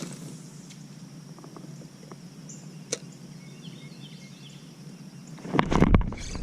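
Quiet outdoor ambience with a faint steady high-pitched insect drone and a single click about three seconds in. Near the end comes a sudden loud whoosh, a fishing rod swept back hard to set the hook on a bass.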